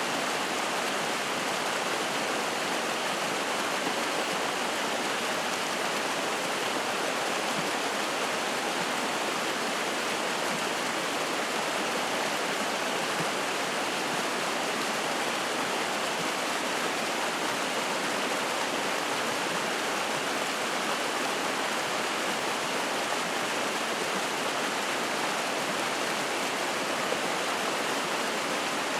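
Spring-fed mountain stream flowing and splashing, a steady, unbroken rush of water.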